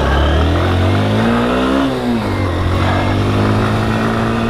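Motorcycle engine pulling away, rising in pitch as it accelerates, dropping back about two seconds in, then running at a steady pitch.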